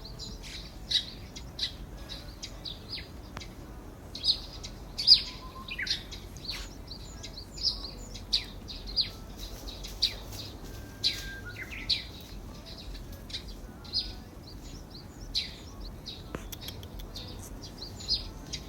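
Wild birds chirping: short high notes repeated every second or so, with a couple of downward-sliding calls among them.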